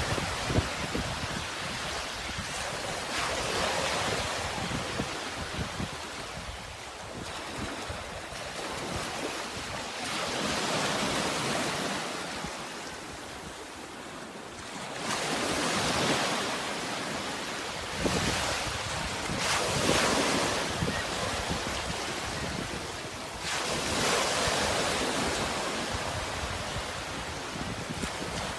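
Sea waves washing in, the surf swelling and fading every four to five seconds.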